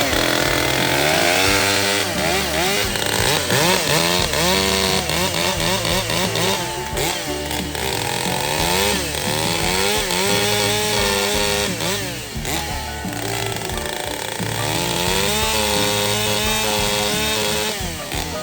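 Echo CS-620PW 60 cc two-stroke chainsaw cutting wood, its engine pitch repeatedly rising and falling as it revs up and loads down in the cuts.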